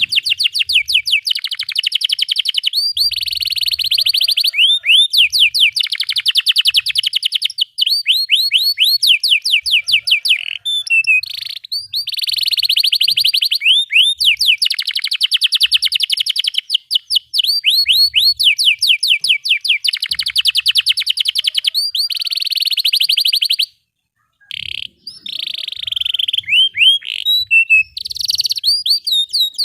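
Domestic canary singing a long, continuous song of rapid rolled trills and repeated chirping notes, with one brief silence late on.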